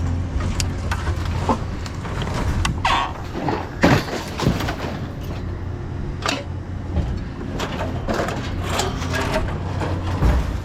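Steady low hum of a running vehicle engine, with scattered knocks and rattles over it, the loudest about four seconds in.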